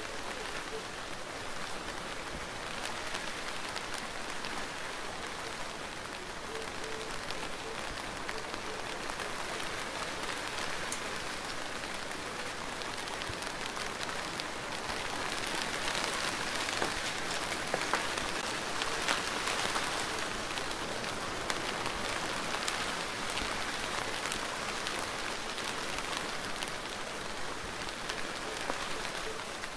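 Steady rain falling: a dense, even hiss with individual drops ticking through it. It grows a little heavier about halfway through, then eases slightly.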